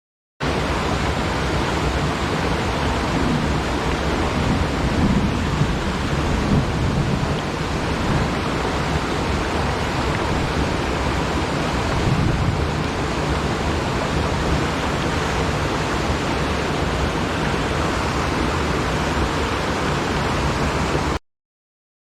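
Steady rush of a fast mountain stream's water, a loud, even noise that cuts in abruptly just after the start and cuts out abruptly near the end.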